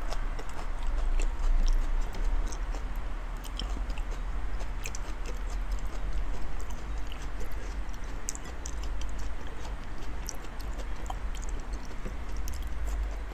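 Close-up wet chewing and biting of big mouthfuls of raw salmon, with small smacking clicks throughout over a steady low hum.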